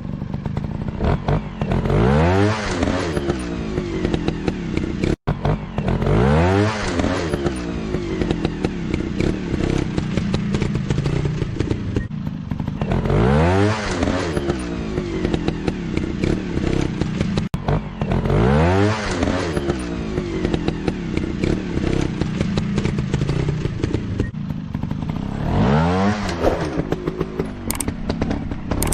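Trail motorcycle engines, single-cylinder four-strokes, revving up and easing off in about five rising surges.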